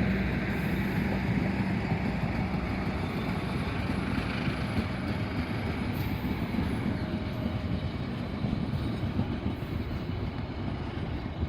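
KA Matarmaja passenger train running by, a steady rumble of wheels on the rails that slowly fades. A low steady hum stops about two seconds in.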